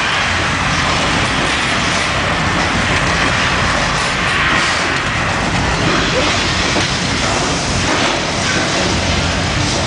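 Special-effects rumble and crashing of a staged earthquake on a theme-park set, a loud, dense, continuous din with heavy low rumble, heard by PANN as a rail train's roar.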